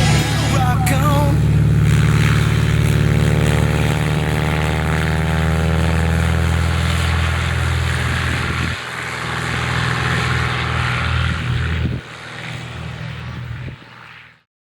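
A large engine running steadily with a deep low-pitched note, its pitch creeping slowly upward. It drops in level twice and fades out near the end.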